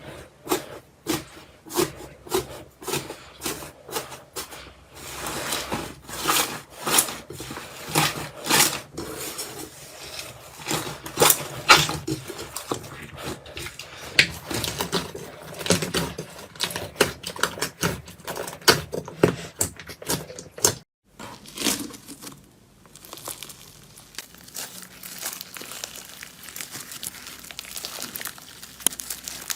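Slime being pressed and squeezed, giving sharp clicks and crinkling crackles. The clicks come about twice a second at first, then grow denser and louder. After a brief silence about 21 seconds in they give way to softer crackling.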